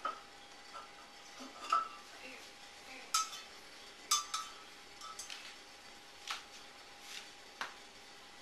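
Light, scattered clinks and knocks of a utensil against a cooking pot, about a dozen over several seconds, some with a short ring, as a pot of brewing herbal medicine is checked and stirred.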